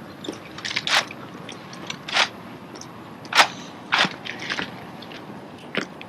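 Drill rifles being handled during a rifle drill sequence: sharp slaps and knocks at irregular intervals as the rifles are caught and struck, the loudest about midway.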